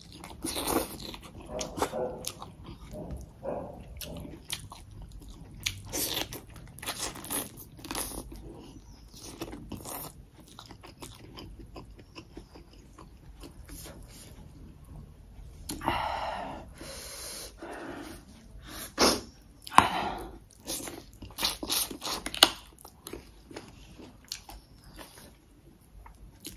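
Close-miked eating sounds: a person chewing mouthfuls of rice and chicken, with many irregular short sharp mouth sounds and a few louder ones a little past the middle.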